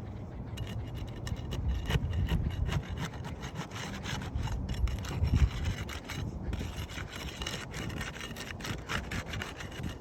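Scraping and rasping in quick, irregular strokes, as a tool works a hard material.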